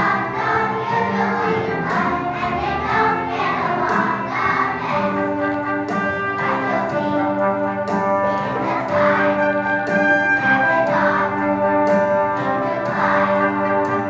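Music: a group of young children singing together over an instrumental accompaniment.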